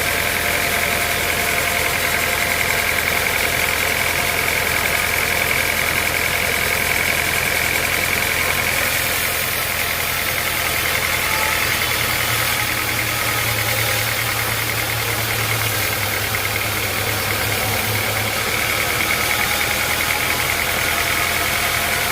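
Sawmill machinery running steadily: a constant motor hum with a high whine over it. The low hum grows stronger for several seconds about halfway through, then settles back.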